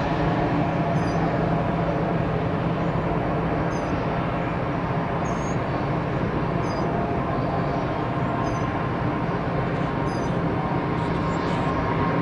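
Airbus A320neo jet engines running at a steady, even level, with faint high chirps, likely from birds, about every second and a half.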